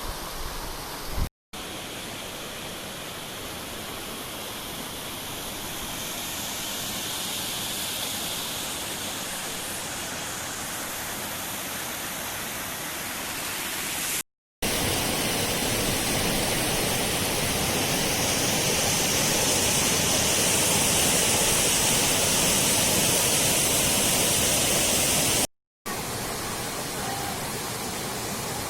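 Steady rushing of a waterfall, a dense hiss, broken three times by brief silent drop-outs where one clip cuts to the next. It is loudest in the stretch between the second and third drop-out.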